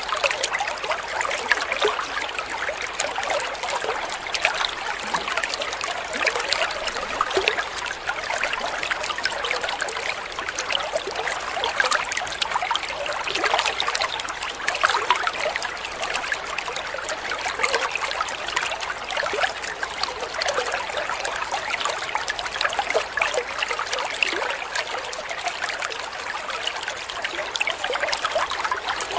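Small stream of water trickling and splashing steadily over stones, an unbroken babble of many small splashes.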